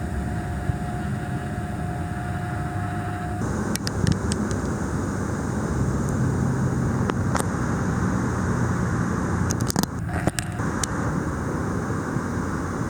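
Camera lens zoom motor whining at one steady pitch for about the first three and a half seconds, over a steady low outdoor rumble. A few small clicks from the camera come later.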